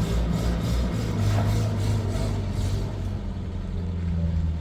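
An engine running steadily with a low hum, easing slightly after about three seconds.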